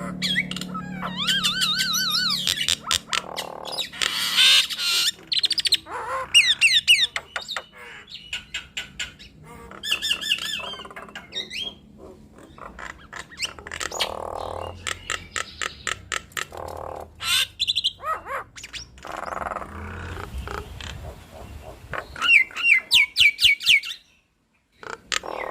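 Two captive starlings calling in a duet: a busy mix of warbling whistles, harsh squawks and rapid sharp clicks. There is a brief drop to silence near the end.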